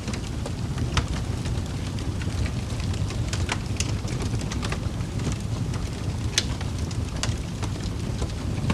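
Wood fire crackling in a fireplace: scattered sharp pops and snaps, a few louder ones, over a steady low rumble of burning.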